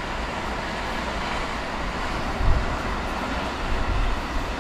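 Steady rumble of a train running along the main-line tracks beyond a rail yard, blended with city traffic noise. Two brief low thumps come about halfway through and near the end.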